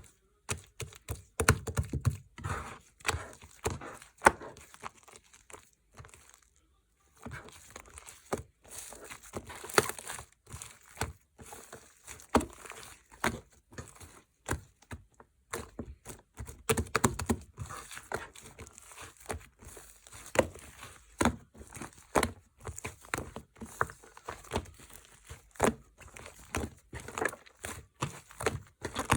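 Slime being squished, pressed and pulled apart by hand: a dense run of sticky crackles, clicks and small pops, with a brief pause about six seconds in.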